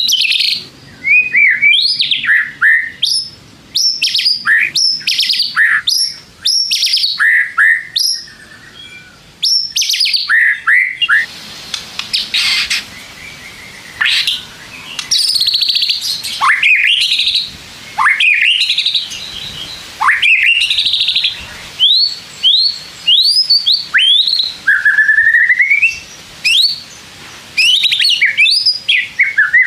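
White-rumped shama singing loudly in a long, varied song: clear whistles, quick upward-sweeping notes and fast buzzy trills, given in short phrases with brief pauses between them.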